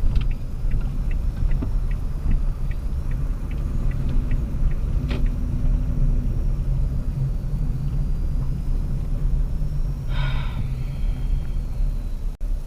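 Low steady rumble of a car's engine and tyres heard inside the moving car, with a light regular ticking in the first few seconds and a brief short noise about ten seconds in.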